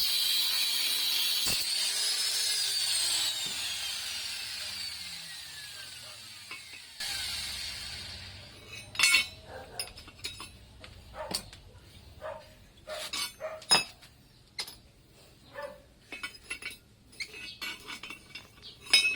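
A fading intro sound effect with falling pitch sweeps. Then, from about halfway in, a string of sharp metallic clinks and taps as metal tools and sidecar mounting parts are handled.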